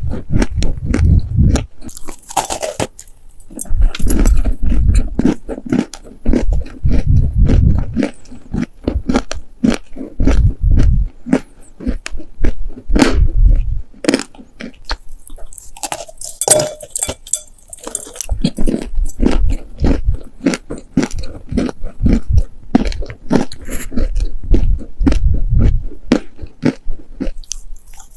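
Close-miked biting and chewing of dry, sandy baked clay cookies: repeated crunching and crackling, with strong jaw thumps in bunches of a second or two.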